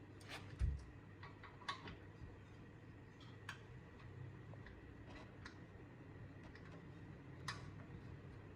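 Scattered light clicks and taps of tools and metal parts being handled, with one dull thump about half a second in.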